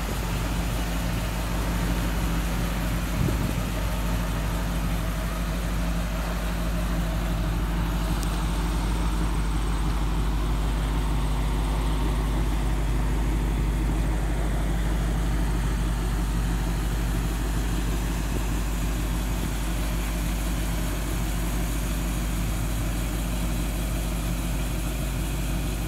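1957 Chevrolet Bel Air's 283 V8 idling steadily.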